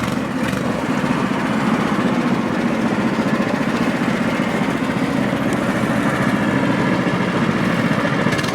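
Small cyclekart engine running steadily.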